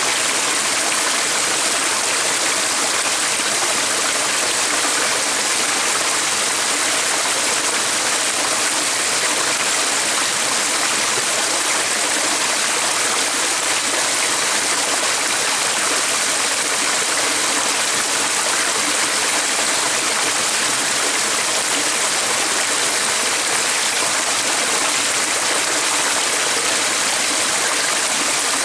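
Stream of running water with a steady rushing and trickling.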